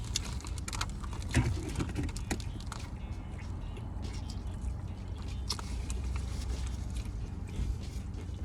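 A person chewing a mouthful of sub sandwich close to the microphone, with irregular wet mouth clicks and crunches, over a steady low hum.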